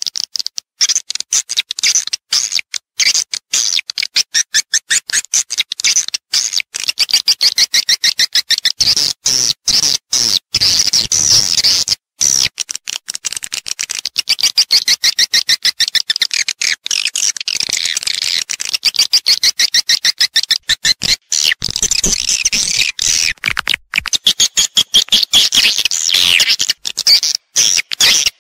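Swiftlet lure call: many swiftlets twittering in a dense stream of rapid, high chirps, broken by short gaps. It is the sound played in swiftlet houses to attract the birds to roost and nest.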